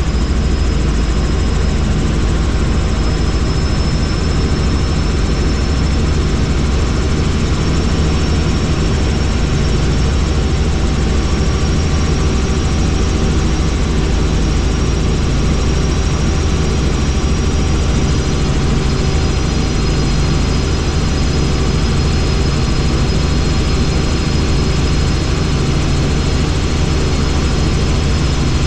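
Helicopter in flight: a steady, loud engine and rotor drone with a thin high whine on top.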